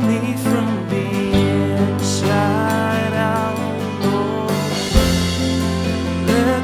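A worship band playing a contemporary worship song, with a sung melody over sustained bass and accompaniment.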